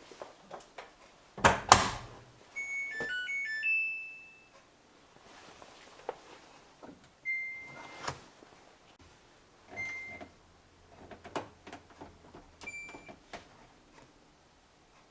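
Samsung Eco Bubble washing machine control panel: a loud double thump, then a short rising power-on tune of electronic tones, followed by three single beeps a few seconds apart as buttons are pressed to set the programme, with light clicks between them.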